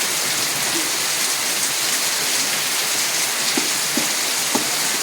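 Steady heavy rain pouring down, an even hiss with a few louder drip ticks near the end.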